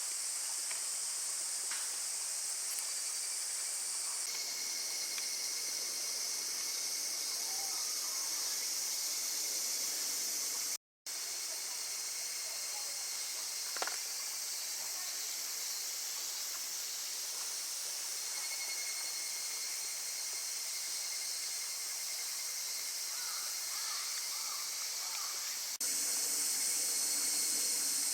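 Steady high-pitched chorus of insects, such as crickets, around the campfire, with a few faint clicks. The sound drops out briefly about eleven seconds in and jumps a little louder near the end.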